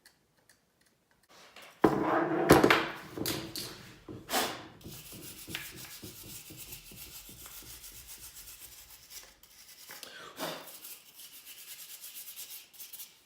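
Scraping and rubbing on a mule deer shed antler, working dried spackling out of its cracks and small holes. The steady scratching starts after a short quiet spell and has a few louder bursts, about two seconds in and again about ten seconds in.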